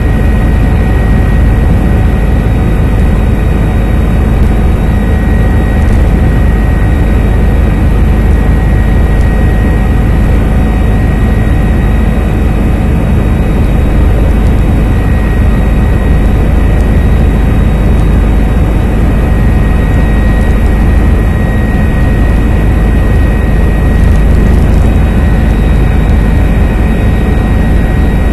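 Helicopter in flight: loud, steady rotor and engine noise, a heavy low drone with thin steady whines above it.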